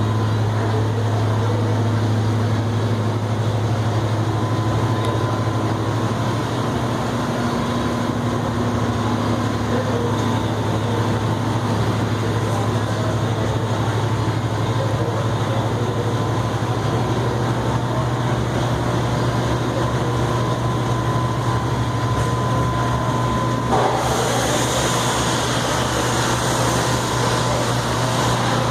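Brush-roller potato washing machine running with a steady motor hum. About 24 seconds in, a higher hiss joins in and a faint whine drops away.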